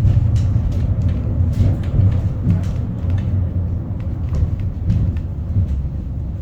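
Wellington Cable Car funicular carriage running on its rails: a steady low rumble with scattered clicks and knocks, easing slightly toward the end.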